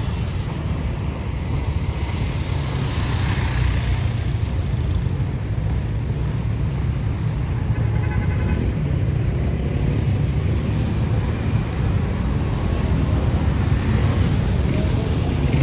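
Steady road traffic on a busy city avenue: a continuous low rumble of passing cars and engines.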